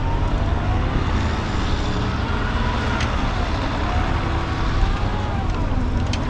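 Electric Unimog trial truck driving over rough ground: a motor whine that rises and falls in pitch with the load, over a steady low rumble, with a sharp click about three seconds in.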